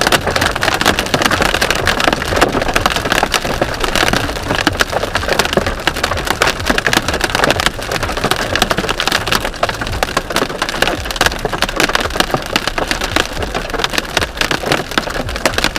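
Hail pelting a car's roof and windshield, a dense steady rattle of countless small hits, over the low rumble of the car driving.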